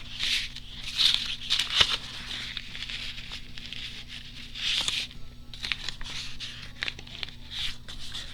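Paper being torn and handled: several short, irregular rasps of ripping with light rustling and clicks between them.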